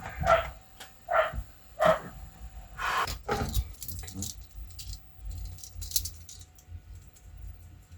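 A series of about five short barks in the first few seconds, then scattered light clicks and rattles.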